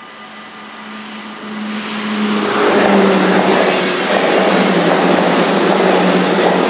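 Dutch NS Sprinter electric commuter train passing through a level crossing at speed. A rush of wheel-on-rail and wind noise builds from about a second in and stays loud as the carriages go by, over a low hum that drops slightly in pitch as the train passes.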